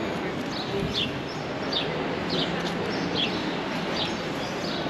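A bird chirping: a short, high, falling note repeated about once or twice a second over steady street noise.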